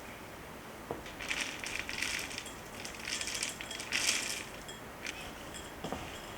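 Crisp crackling in three short bursts, like something dry or papery being crushed or crinkled during kitchen work, with a light knock about a second in and another near the end.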